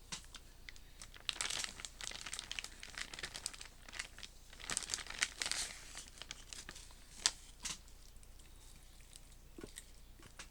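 Plastic food packaging from raw chicken thighs crinkling and tearing as it is handled and pulled open, busiest in the first half, then dying down to a few scattered crackles.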